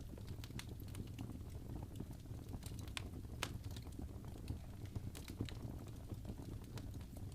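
Wood fire crackling in a fireplace: irregular sharp pops and snaps, a few louder ones (about three seconds in and again past five seconds), over a steady low rumble of the flames.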